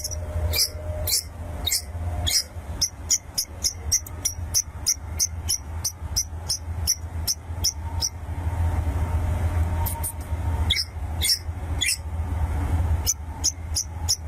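Long-tailed shrike (pentet) calling in a fast series of short, sharp, high notes, about three a second, with a pause of two to three seconds after the middle before it starts again. A steady low hum runs underneath.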